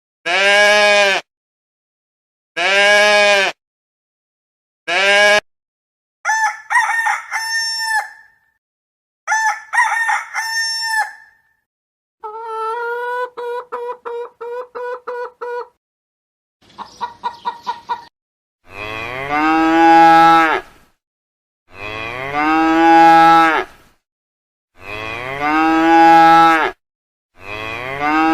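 A sequence of farm animal calls: three short goat bleats, then two rooster crows and a run of hen clucking, then four long cow moos near the end.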